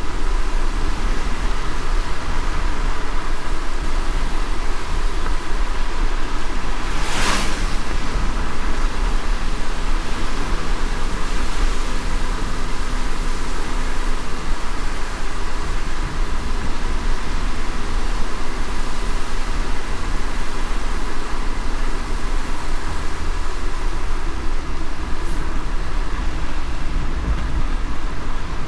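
Steady road and tyre noise of a car driving in light rain, with a low rumble underneath. A brief swish about seven seconds in.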